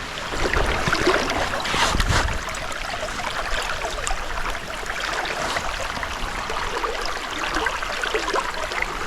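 Steady rush of pouring rain and flowing stream water, with a brief low knock about two seconds in.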